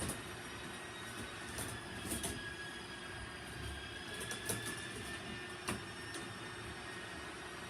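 Electrical tape being pulled off its roll and wrapped around wires to phase them as neutrals: a thin drawn-out squeal of tape unwinding over a steady hiss, with a few light handling clicks.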